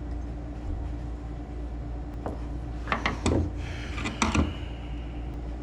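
Small clicks and knocks of metal parts being handled while the electric choke housing is taken off a carburetor, over a steady low hum.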